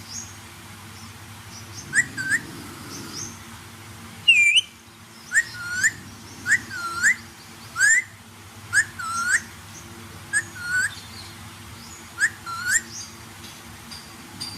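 Pet parrot whistling a string of short, hooked whistles, one or two a second in clusters, with one higher, louder rising whistle about four seconds in.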